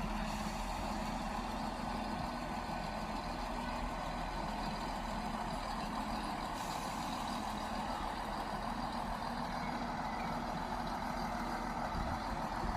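Trains standing at a station platform, their engines and equipment running with a steady hum and a faint held tone.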